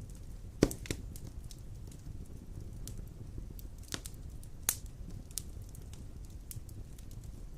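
Large logs burning in a stone fireplace: a steady low rumble of flames with irregular sharp crackles and pops, the loudest a little over half a second in.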